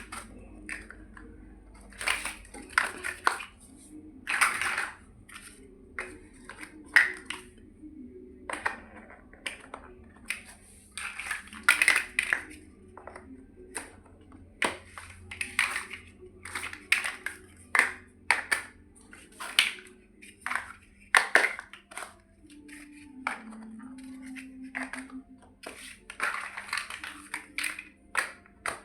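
Plastic Lego bricks being handled and pressed together: a long, irregular run of sharp clicks and short rustling clatters.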